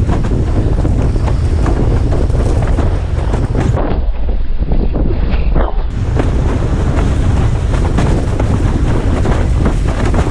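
Strong wind buffeting the microphone of a head-mounted action camera, with water rushing and slapping under a windsurf board. The wind rumble eases for about two seconds in the middle.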